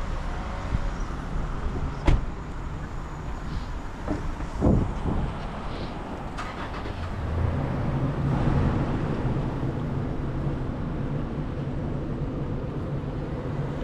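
Steady rumble of wind and tyre noise from riding a bicycle, with a sharp click about two seconds in and a thump about five seconds in. The rumble swells louder for a couple of seconds around the eight-second mark.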